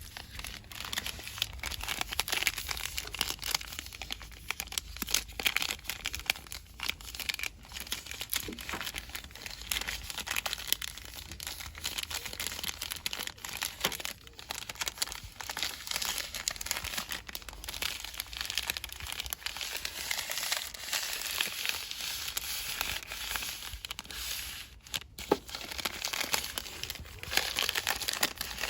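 Fast, continuous crinkling and rustling of plastic cosmetics packaging handled by hand close to the microphone, full of small crackles and clicks.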